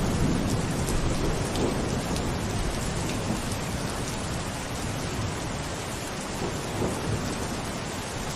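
Steady rain falling as an even hiss, with a low rumble underneath that is strongest in the first few seconds and then eases off.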